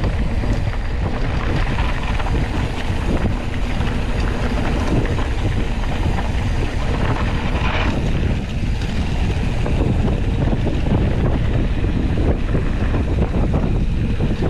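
Wind buffeting the microphone of an onboard camera on a mountain bike moving at speed, with the bike's rattling over rough trail running underneath.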